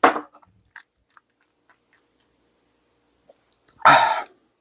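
Close-up eating sounds: a crunchy bite, then a few faint chewing clicks, with a louder noisy burst near the end.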